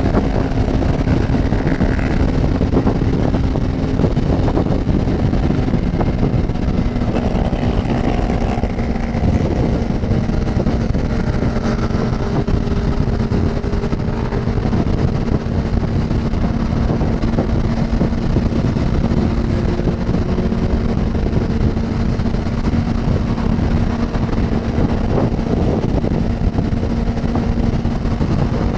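Motorcycle engine running steadily while riding on the road, with wind rushing over the microphone.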